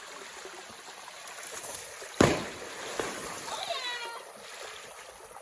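A log going off a waterfall lands with one loud crash about two seconds in, against the steady rush of falling water. A smaller knock follows, then a high, falling whoop from a person.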